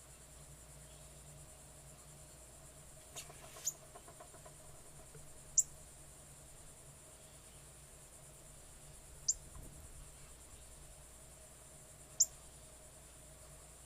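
A bird gives three short, sharp, falling chip calls, each about three seconds apart, over a steady high drone of insects. A softer pair of sounds comes about three seconds in.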